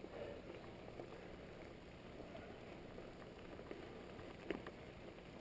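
Mountain bike rolling along a dirt trail: a faint, steady tyre and riding rumble with a few light clicks and rattles, one a little after four and a half seconds in.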